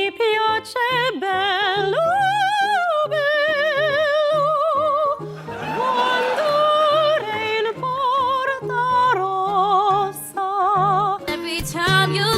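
Operatic-style solo singing with wide vibrato on long held notes, over instrumental accompaniment with a repeating bass line.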